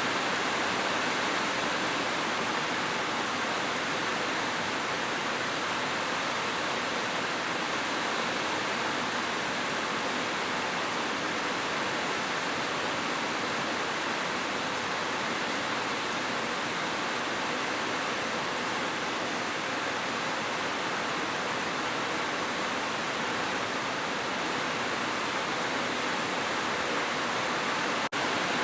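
Heavy rain falling as a steady, even hiss, with a momentary dropout near the end.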